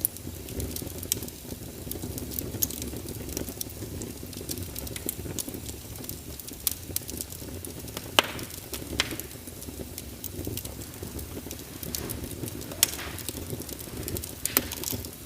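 Fireplace fire crackling: a steady low rumble of burning with irregular sharp pops, a few louder snaps in the second half.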